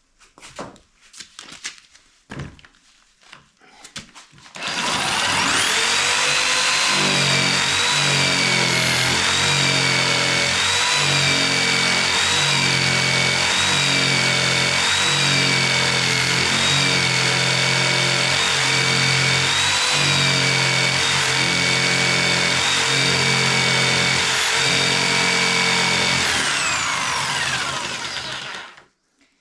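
Electric jigsaw sawing slowly through a thick beam of hard, dense wood. It spins up with a rising whine about five seconds in, runs under load for over twenty seconds, and winds down near the end. Before it starts there are a few knocks as the beam is handled.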